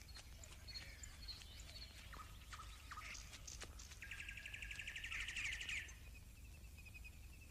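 Birds chirping outdoors: scattered short chirps and calls, then a rapid trill for nearly two seconds about four seconds in, followed by a faint even pulsing call, over a steady low hum.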